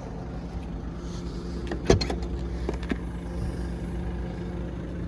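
Volkswagen Touran's 1.6 TDI diesel engine idling steadily, with a sharp click just under two seconds in and a fainter one about a second later.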